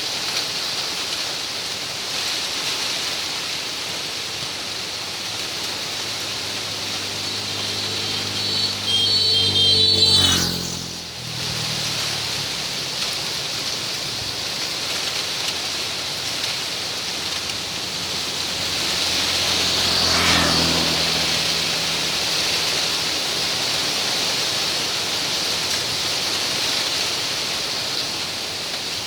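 Wind making a steady hissing rustle in the fronds of sugar palms. A motor vehicle passes about ten seconds in, the loudest moment, and another fainter one passes around twenty seconds in.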